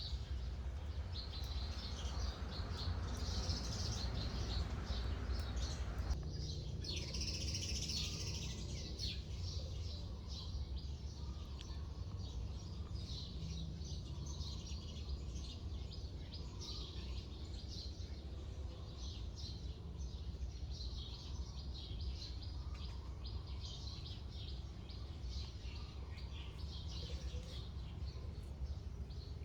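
Many small birds chirping and twittering over a steady low background rumble. A rushing noise under the birdsong stops abruptly about six seconds in.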